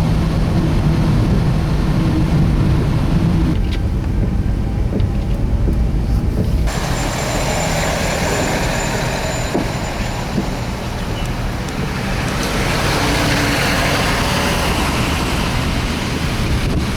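Road vehicles running and highway traffic: a steady low engine rumble with traffic noise. The sound changes abruptly about three and a half seconds in and again near seven seconds.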